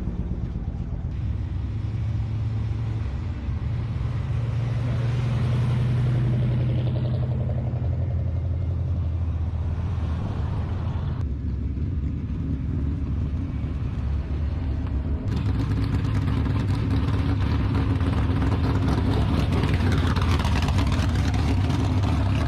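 Car engines running as cars drive out one after another. The sound changes abruptly about a second in, again about eleven seconds in, and again about fifteen seconds in.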